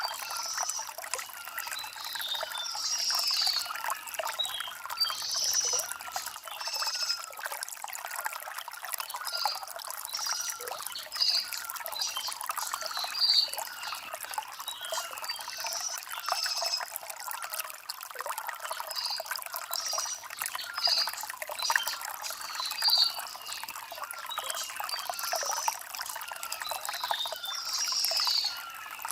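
Small stream trickling and splashing over river stones, with short high chirps every second or two.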